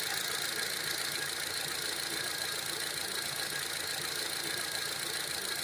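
Honda CR-V engine idling steadily.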